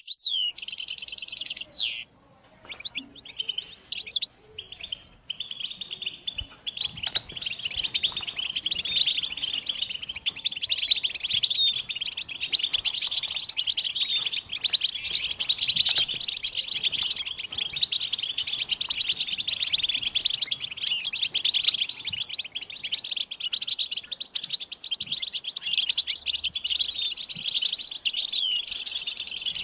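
European goldfinches chattering and singing together: a few scattered chirps, then a dense, continuous twittering from about seven seconds in. A buzzy trill about a second long sounds at the start and again near the end.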